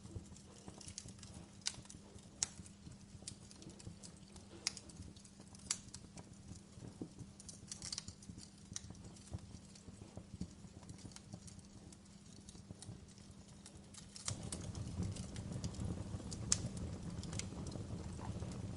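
Wood fire crackling in a fireplace: irregular sharp pops and snaps over a low steady rumble. About fourteen seconds in, the low rumble grows louder.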